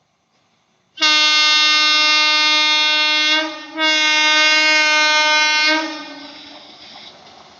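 WAP7 electric locomotive's air horn sounding two long, steady blasts of one tone, with a short break between them, followed by the fainter running noise of the train.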